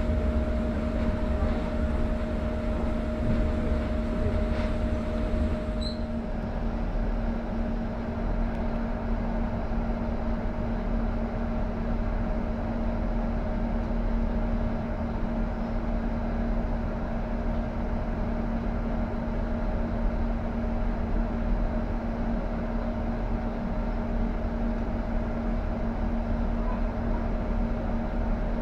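Passenger train running at steady speed, heard from inside the carriage: a constant rumble with a steady hum. The higher hiss drops away about six seconds in.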